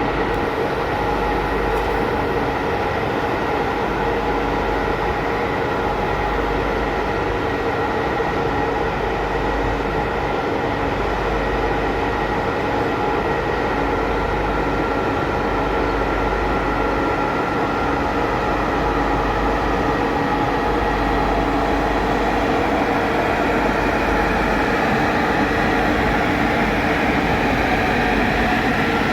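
Train running steadily, a continuous rumble with several steady whining tones over it; the tones rise slightly in pitch near the end.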